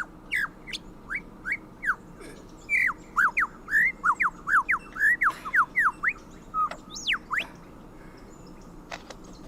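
Superb lyrebird singing: short whistled notes sweeping down and up, a few at first, then a rapid run of them for several seconds and a last few that taper off.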